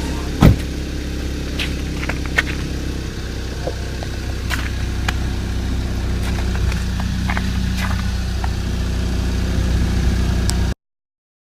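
2013 VW GTI's turbocharged four-cylinder engine idling steadily on a cold morning shortly after a cold start. There is a short sharp knock about half a second in, and a few light clicks over the idle.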